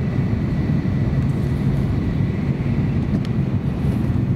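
Steady low rumble inside the passenger cabin of a JR Central N700 Series Shinkansen running between stations, with a faint thin high tone above it.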